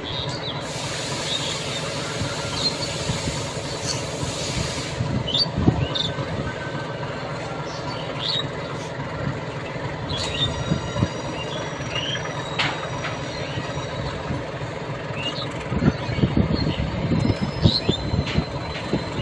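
Train moving slowly through a rail yard: a steady low rumble with short, high wheel squeals and scattered clanks, the clanks busier near the end. A hiss joins in for a few seconds near the start.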